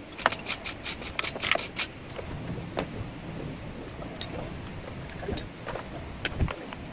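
A quick run of about eight sharp clicks in the first two seconds, then scattered single clicks and knocks over a steady background hiss.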